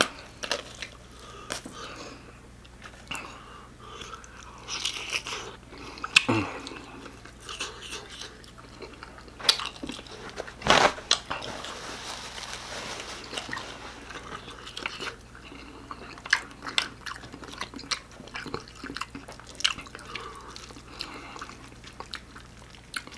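Close-miked chewing and biting of bacon-wrapped sausage and ramen noodles, with scattered wet mouth clicks. About eleven seconds in, a paper napkin rustles for a few seconds as the mouth is wiped.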